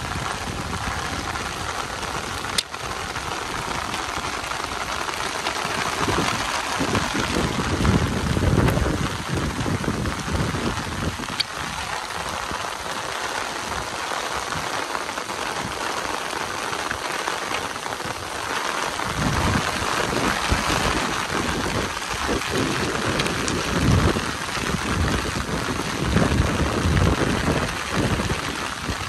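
Heavy rain falling steadily, with low rumbles swelling now and then.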